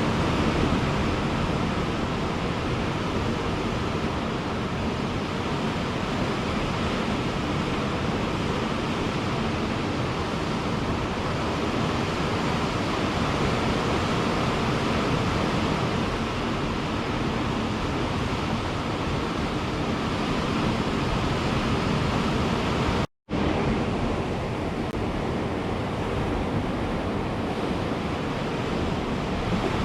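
Ocean surf washing on a beach, a steady rush of breaking waves. The sound cuts out for an instant about three quarters of the way through.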